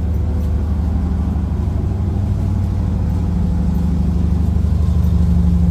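Steady low drone of the standing train's diesel engine, heard inside the sleeper carriage, growing a little louder near the end.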